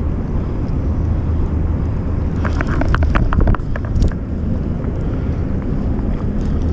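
Fishing reel clicking in a quick run of short ticks for about a second and a half, starting a little over two seconds in, while a hooked fish is snagged under something. A steady low rumble sits underneath throughout.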